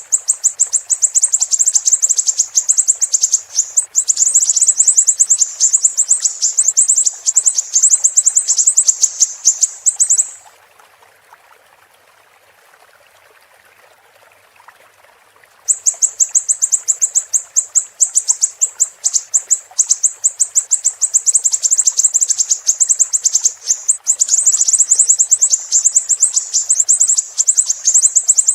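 Siri-siri songbird singing a long, very rapid, high-pitched chattering trill. It breaks off for about five seconds just before the middle, then starts again. Under it, running water trickles steadily.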